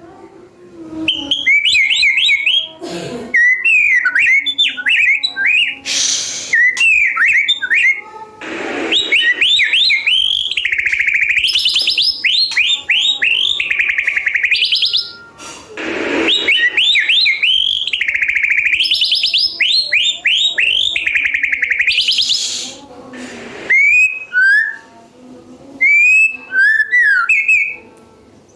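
White-rumped shama (murai batu) singing in long phrases of fast, repeated, sliding whistled notes, with short pauses between phrases. Several brief loud rushing noises break in between the phrases.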